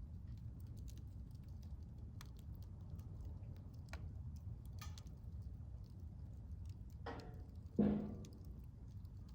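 Wood fire burning in a Solo Stove Bonfire fire pit: a steady low rumble with scattered sharp crackles and pops. About seven seconds in come two short pitched sounds, the second the loudest, fading over about half a second.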